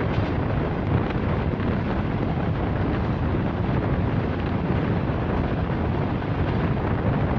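Steady rumble and rush of a passenger train running at speed, with wind buffeting the microphone.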